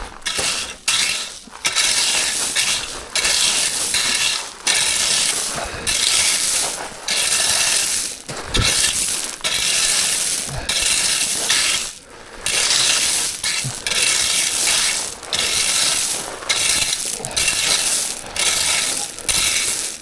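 Loose gravel being spread and levelled by hand in a shallow dug-out base: a run of noisy strokes, roughly one a second, with short pauses between them.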